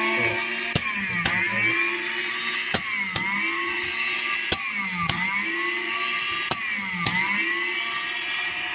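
Repaired Nissan 12-volt car starter motor spinning free on a bench test, a loud whine whose pitch dips and recovers about every two seconds, with a sharp click at each dip. It spins properly, the sign that the repair of its jammed brushes has worked.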